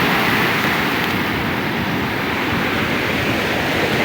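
Ocean surf washing in on the beach: a steady rushing of breaking waves.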